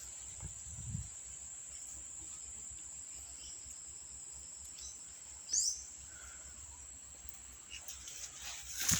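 An insect's steady, high-pitched trill, held unbroken throughout, with one short, louder high chirp a little past the middle.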